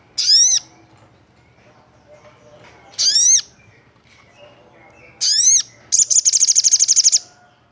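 Olive-backed sunbird calling: three sharp, loud whistled notes that swoop in pitch, a few seconds apart, then a fast trill of about fifteen notes lasting just over a second.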